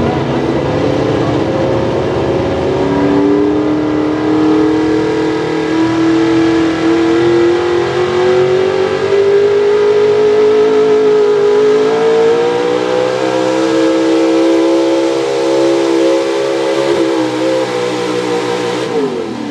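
Pro Stock 4x4 pulling truck's engine running at high revs under load on a pull, its pitch climbing gradually through the run. Near the end the revs drop sharply as it comes off the throttle.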